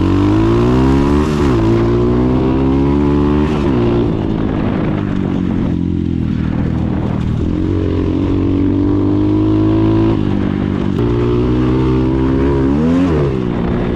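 A 140 cc carbureted dirt bike engine accelerating. Its pitch climbs and drops sharply at upshifts about two and four seconds in, then climbs again before a quick rev up and down near the end.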